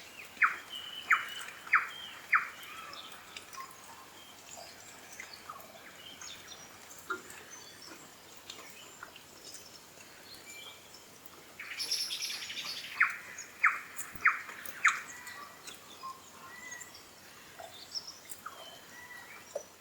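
New Zealand bellbird (korimako) singing: two phrases of four loud, clear notes each, about two-thirds of a second apart, with softer scattered chirps between them and a short rough burst just before the second phrase.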